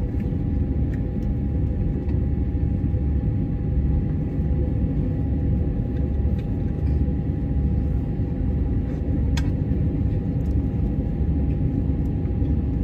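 Steady low machinery rumble with a constant hum, the running-engine noise around an airliner during deicing, with one short click about nine seconds in.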